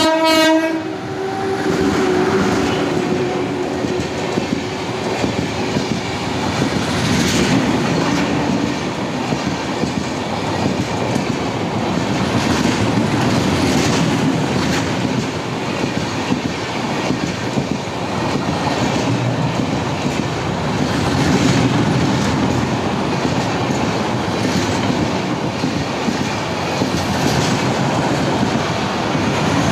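Express train passing at speed with a steady rolling rumble and wheels clattering over rail joints. The tail of a train horn blast cuts off within the first second.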